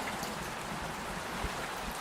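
Steady rain falling, with faint scattered ticks.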